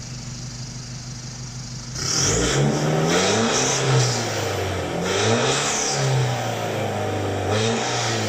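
Nissan Navara EL's diesel engine, fitted with an aftermarket HKS full exhaust, idling steadily. From about two seconds in it is revved hard several times, the exhaust note rising and falling with each blip.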